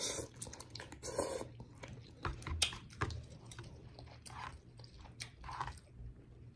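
A person eating noodles: slurping them in near the start, then chewing, with irregular clicks and smacks from the mouth.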